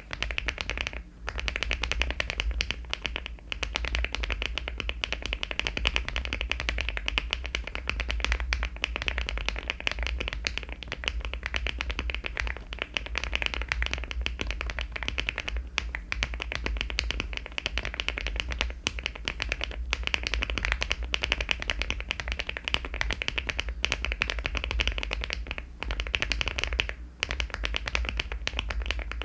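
Rapid typing on a LEOBOG Hi75 aluminium mechanical keyboard fitted with HMX Macchiato switches and Cherry-profile keycaps: a dense, continuous stream of keystroke clacks with a few brief pauses.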